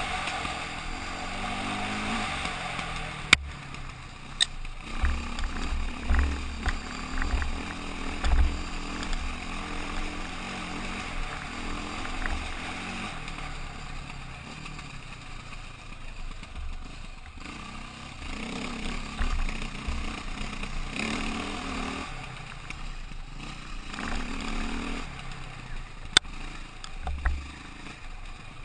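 KTM motorcycle under way, its engine running with wind noise and uneven low rumbling thumps. A sharp click comes about three seconds in and another near the end.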